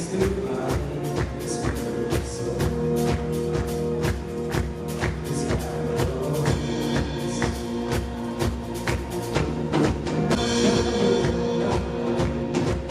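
Live worship band playing an instrumental passage: a drum kit keeps a steady beat under sustained chords and bass.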